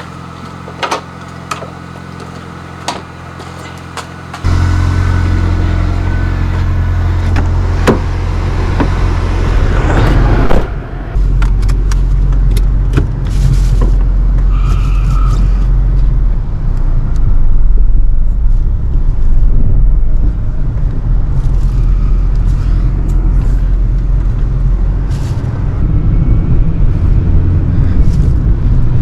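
Car engine running steadily with a low hum and some light clicks. About four and a half seconds in, the sound jumps to a much louder low rumble that carries on, with scattered clicks and scrapes over it.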